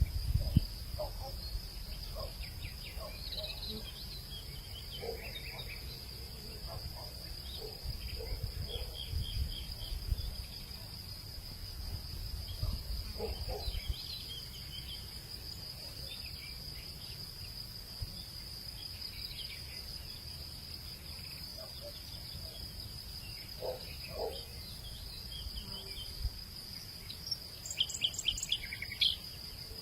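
Outdoor evening ambience: insects trill steadily on one high pitch, with scattered short bird chirps and a quick run of chirps near the end, over a low rumble.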